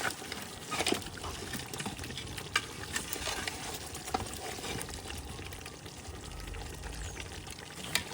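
Pot of layer-hen curry meat frying and being stirred: a steady sizzle with a spoon clinking against the pot now and then.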